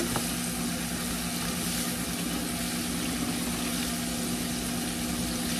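Green beans frying in bacon grease in a pan, a steady sizzle, over a constant low hum.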